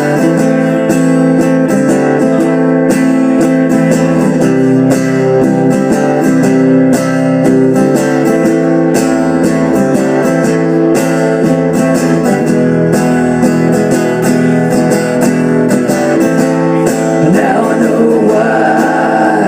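Guitar strumming an instrumental passage of a slow blues-style song between sung verses.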